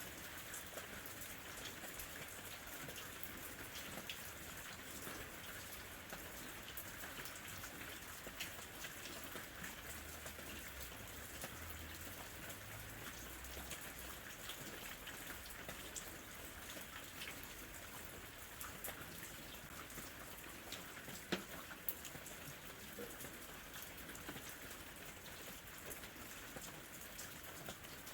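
Gentle rain falling steadily, with many small raindrop ticks on a surface. A couple of louder drops stand out a little past two-thirds of the way through.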